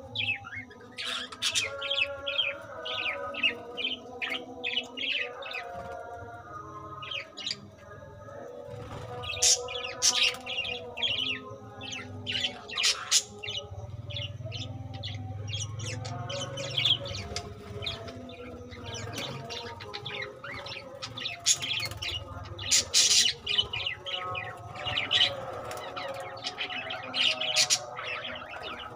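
A flock of budgerigars chattering and chirping, with many short, overlapping calls throughout.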